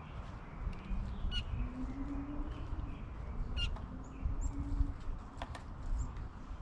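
Backyard birds calling and chirping: a couple of short sharp calls and several thin high chirps, over a steady low rumble and a low hum lasting a few seconds in the first half.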